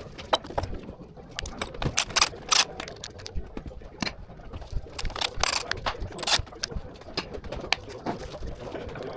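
Irregular clicks and knocks of hand tools and metal engine parts being handled during an engine teardown, with the sharpest knock right at the start.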